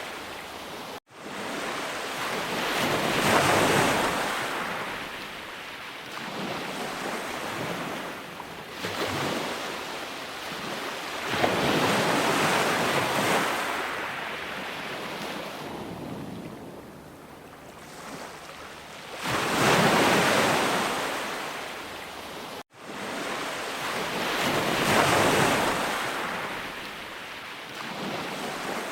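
Sea waves breaking and washing on a shore, each surge swelling and then fading over several seconds. The sound cuts out for an instant twice, once about a second in and once later on.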